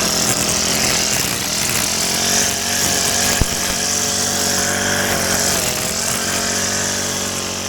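Small petrol engine of a handheld garden power tool running steadily while cutting grass, with one sharp click a little past three seconds in.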